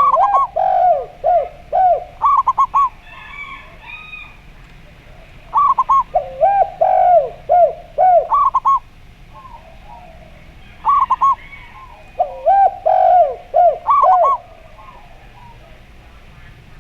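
Zebra dove and spotted dove cooing in three phrases of about three seconds each. Quick higher coos are mixed with lower coos that drop in pitch at their ends.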